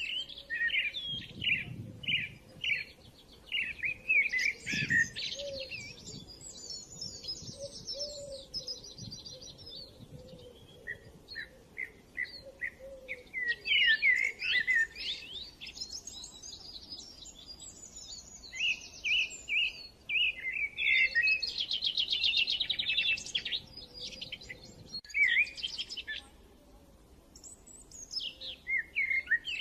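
Several songbirds chirping and singing together, with quick sweeping chirps and fast rattling trills overlapping almost without a break.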